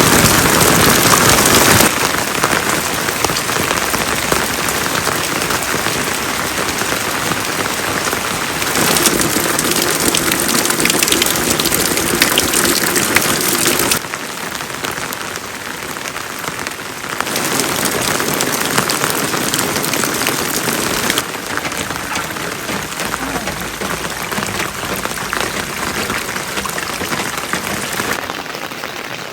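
Steady rain falling and pattering on surfaces, in several cuts that change abruptly in loudness, loudest at the start.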